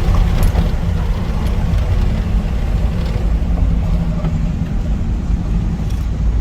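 Pickup truck's 350 cubic-inch ZZ4 crate V8 running under way, heard from inside the cab as a steady low rumble mixed with road noise.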